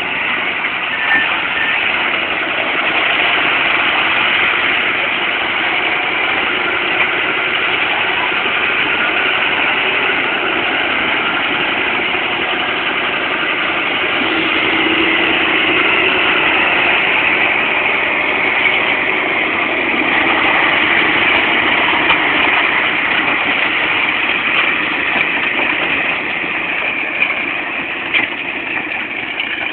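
John Deere 6930 tractor's six-cylinder diesel engine running steadily as it pulls a plough, a little quieter near the end.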